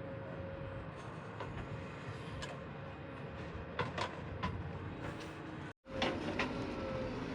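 JCB 3DX backhoe loader's diesel engine running steadily, with a steady whine over it and several sharp metal clanks. The sound drops out for an instant a little before 6 seconds in.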